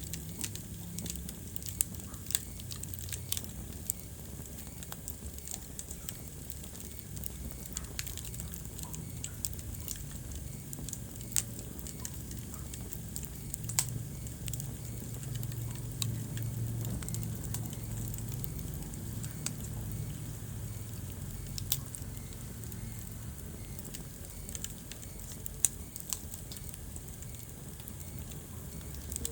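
Wood fire crackling, with irregular sharp pops and snaps, a few louder than the rest, over a low steady rumble.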